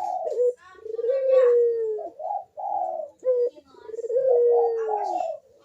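Puter (Barbary dove) cooing its repeated 'kuk-deruk' song in full voice: phrases of low coos, each ending in a long note that sags in pitch, about three phrases in a row.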